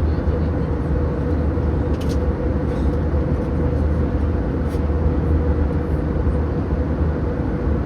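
Airliner cabin noise in flight: a steady low drone of engines and airflow with a constant hum above it, and a couple of faint clicks.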